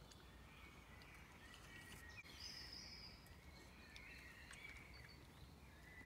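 Near silence, with a few faint bird calls scattered through it.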